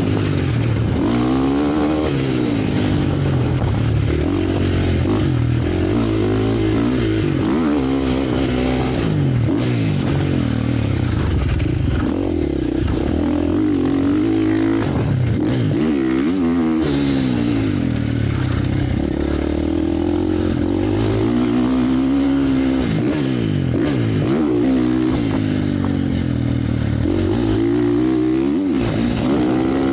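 Motocross bike engine revving up and falling back again and again, the pitch climbing and dropping every second or few as the rider works the throttle and gears around the track.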